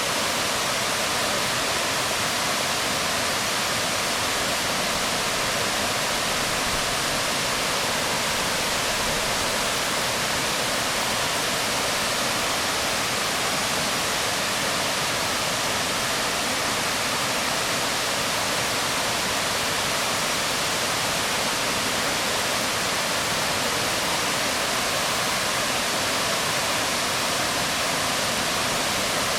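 Waterfall pouring onto rocks: a steady, unchanging rush of falling water, loudest in the upper-middle range and thin in the bass.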